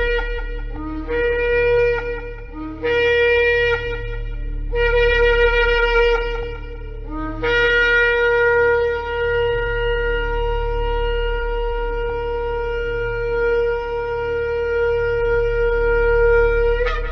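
Shofar blown in a series of four short blasts, each jumping up from a low note to its main pitch. Then comes one long held blast of about nine seconds that breaks upward at the end.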